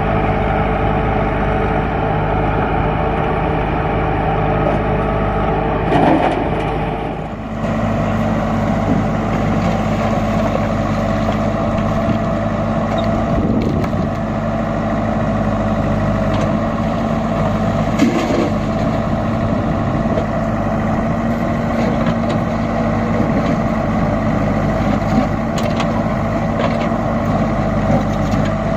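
Tractor diesel engine running steadily under load. About seven seconds in the sound dips briefly and the engine note then settles at a slightly different pitch.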